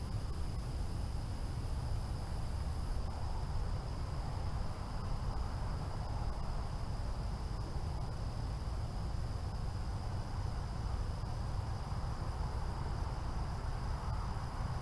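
Outdoor insect chorus, crickets chirring steadily in high bands, one of them fading in and out every few seconds, over a low steady rumble.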